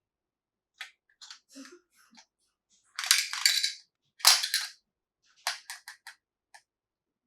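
Plastic toy pieces and packaging handled by hand: a few light clicks and taps, two louder crinkling rustles about three and four seconds in, then a quick run of clicks.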